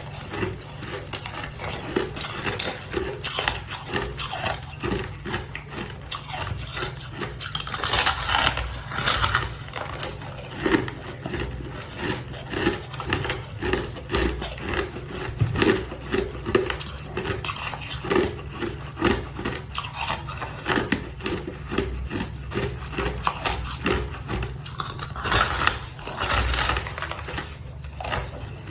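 A person chewing crunchy ice: steady crunching at about two to three chews a second, with louder, sharper crunches about eight seconds in and again near the end.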